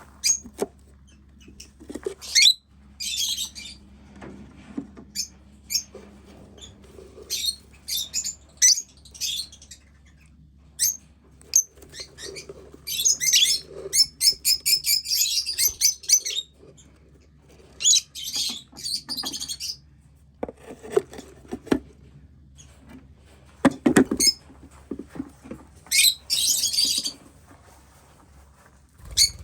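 Aviary lovebirds chirping in short, shrill bursts, some of them quick strings of chirps, with a few knocks or thumps in between.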